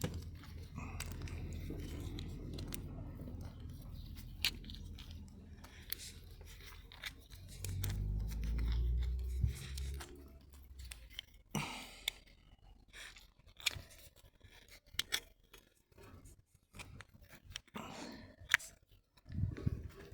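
Hand work on a hydraulic valve: irregular sharp clicks and scrapes of tools and parts being handled, over a low rumble that swells about halfway through.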